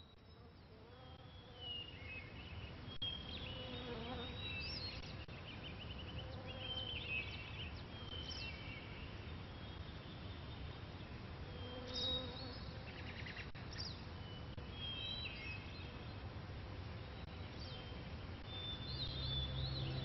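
Several small birds singing: short chirps, whistled glides and quick trills coming and going, over a steady low buzz.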